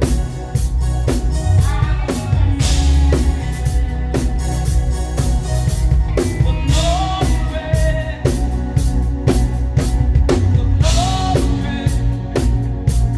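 Live praise band music, with a drum kit keeping a steady beat on bass drum and cymbals and a voice singing over the band.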